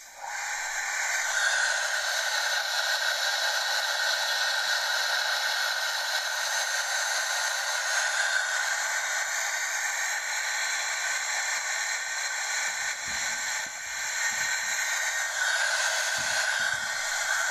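Washtec automatic car wash running: a steady, loud hiss that starts suddenly and holds level.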